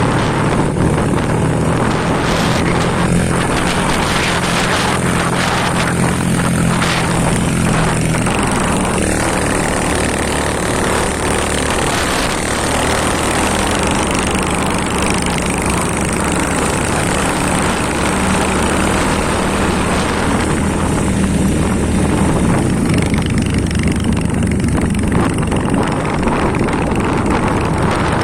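Vehicle engine running steadily under heavy rushing wind and road noise while travelling along a road. The engine note changes about eight seconds in.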